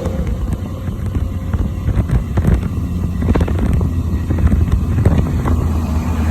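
BMW S1000RR inline-four engine with an Akrapovič exhaust off the throttle, a steady low drone with the exhaust popping and crackling irregularly on the overrun.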